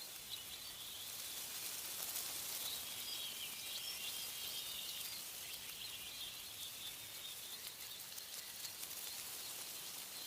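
Wind rustling through tree leaves as a steady hiss, with small birds chirping faintly in the background, most often in the first half.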